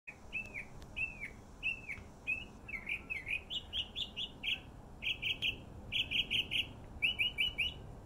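Songbird singing a varied song: clear arched whistled notes at first, changing about halfway through to quick groups of three or four short, sharp notes.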